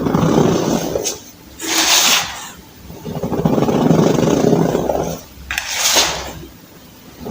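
Reformed baking soda blocks being crushed: a run of crunchy pressing sounds alternating with two brighter, hissier crumbles as the powder breaks apart, then a quieter stretch near the end.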